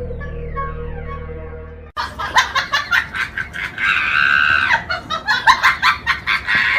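A short music sting with falling notes fades out, then after a cut comes loud hearty laughter in quick pulses, rising to a high shriek about four seconds in.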